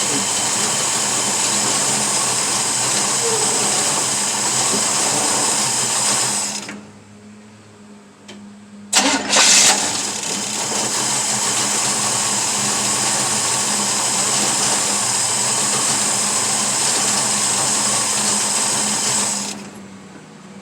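Chevy 383 stroker small-block V8 running steadily and loud. About six and a half seconds in the sound drops away sharply; near nine seconds it comes back with a sudden loud burst and runs on steadily, dropping off again near the end.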